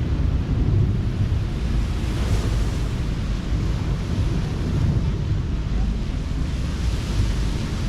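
Ocean surf washing onto the beach in a steady rush that swells twice, with wind buffeting the microphone as a low rumble.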